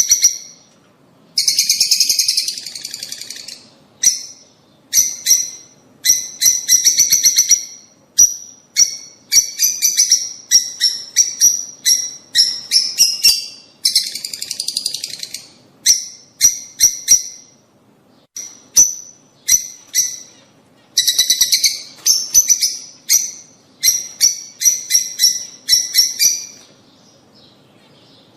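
Lovebirds chattering: rapid strings of shrill chirps in bursts of a second or two, with short pauses between them and a longer pause near the end.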